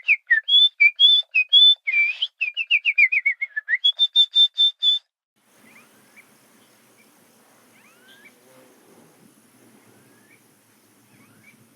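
A songbird singing close by, a loud run of quick whistled notes ending in a string of rapid higher repeated notes, which cuts off about five seconds in. After that only a few faint distant bird chirps over quiet outdoor ambience.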